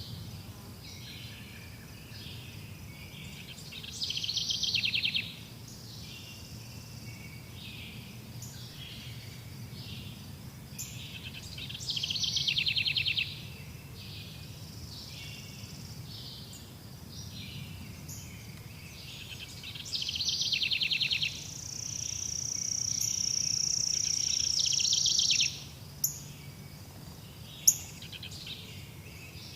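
Forest birdsong: one bird repeats a short, fast trilled phrase about every eight seconds, with softer calls from other birds in between. Near the end a long, steady high note holds for about four seconds, followed by two short, sharp clicks.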